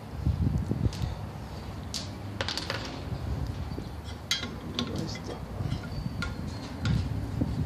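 Small metal parts of a ceiling fan being handled: scattered sharp clicks and clinks, bunched about two seconds in and again around four to six seconds in, over low bumping and rubbing from handling.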